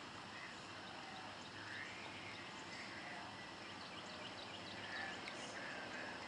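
Faint bird calls, short arched chirps repeating every second or so, with a few quick high ticks about two thirds of the way through, over a steady outdoor hiss.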